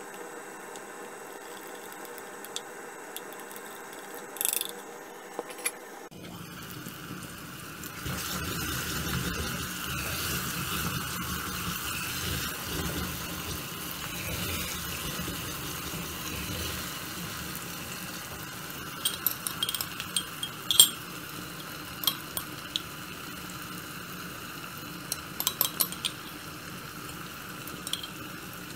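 Chopped onion and tomato sizzling as they fry in a clay pot, stirred with a wooden spoon; the hiss sets in about a quarter of the way through. Near the end, a run of sharp clinks as a metal knife scrapes garlic and ginger paste out of a glass jar.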